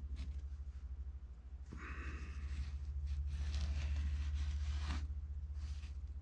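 Soft rustling and scraping of hands working a small clay maquette, heaviest from about two to five seconds in, over a steady low hum.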